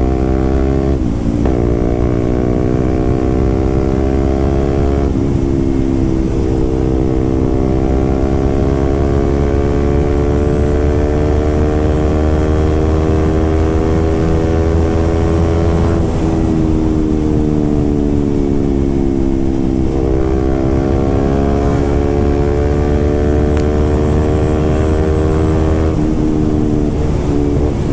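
Motorcycle with a loud SC Project aftermarket exhaust being ridden, its engine note slowly rising and falling with the throttle, with a few brief breaks where the pitch drops away and picks up again.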